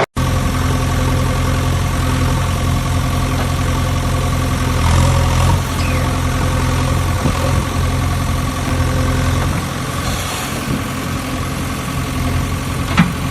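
Engine idling steadily, with an even low hum. There is a brief dropout just after the start and a short sharp click near the end.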